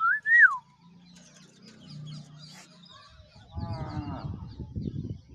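Pet parrot: a loud, short whistle that rises and then falls right at the start, then after a quieter stretch a harsh call that drops in pitch. From partway through, rough knocks and rustles continue.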